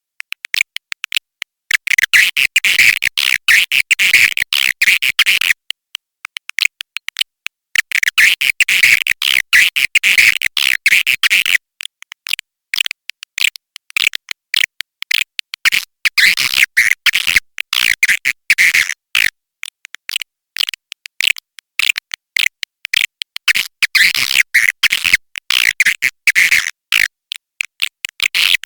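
Swiftlet calls from a lure recording for swiftlet houses: rapid trains of buzzy, clicking chirps that come in dense bursts of a few seconds with sparser, broken stretches between them.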